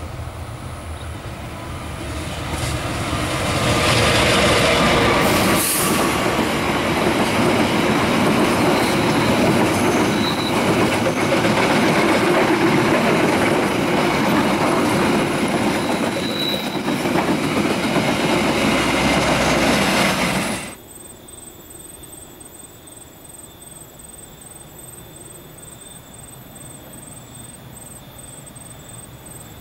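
Diesel-hauled passenger train passing close by: the locomotive and then the coaches roll past with loud wheel and rail noise, clatter and a few brief high wheel squeals. The sound cuts off suddenly about two-thirds of the way through, giving way to a much quieter steady background with a faint high whine.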